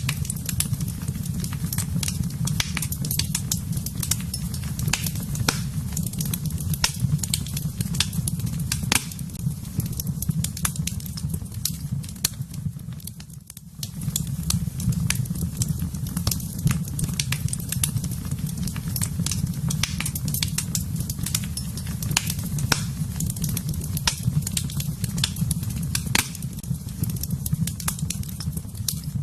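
Fire in a fireplace crackling, with frequent sharp pops and snaps over a steady low rumble; it drops away briefly about halfway through.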